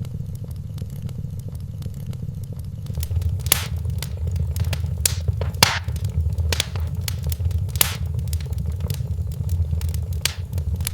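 Wood fire in a fireplace crackling, with irregular sharp pops over a steady low rumble of the flames; the pops come thicker and louder from about three seconds in.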